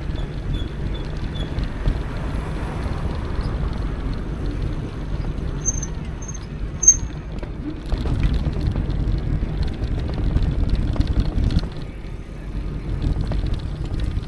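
Steady low rumble of an electric mountain bike riding a trail: tyre noise and wind on the microphone, with a single sharp knock about seven seconds in.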